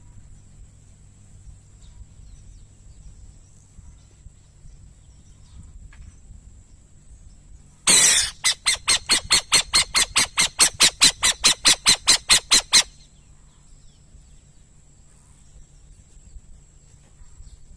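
Burrowing owl giving a harsh, rapid chattering call. About halfway through, one loud rasp is followed by roughly twenty quick noisy notes, about five a second, for some five seconds, and the call then stops abruptly. A steady thin high whine runs underneath.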